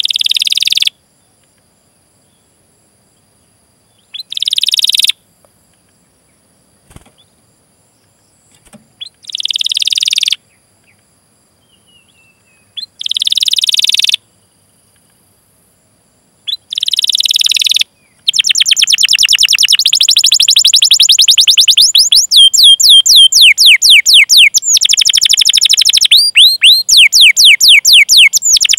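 Canary singing: five short, dense rolling trills a few seconds apart, then, about 18 seconds in, a long unbroken run of rapid high 'cuit cuit' chirps, each a quick pitch sweep, many a second.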